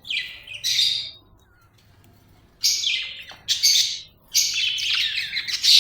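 Budgerigar chirping in short bursts of chatter, two at the start, then after a pause of about a second and a half a longer run of chirps.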